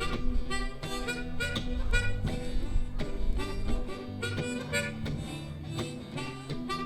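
Live blues band playing an instrumental passage: harmonica lead in short repeated phrases over guitar and a walking bass.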